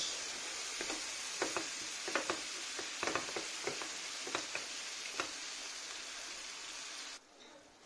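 Onions, garlic and fresh tomato sizzling in a frying pan, stirred with a wooden spoon that clicks and scrapes against the pan at irregular moments. The sizzle cuts off suddenly near the end.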